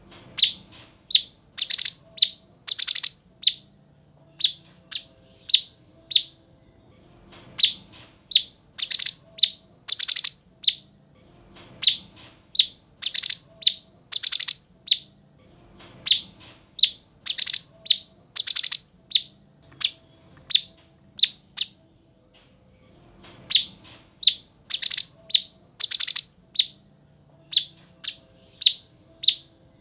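Cucak cungkok songbird calling in a rapid series of short, sharp, high chirps, about two or three a second, broken every few seconds by a cluster of louder, harsher notes, in a steadily repeating pattern.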